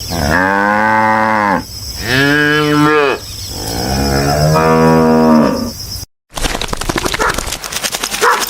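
Cattle mooing: three long, drawn-out moos, the last the longest. About six seconds in the clip cuts and a different, rapid rattling noise follows.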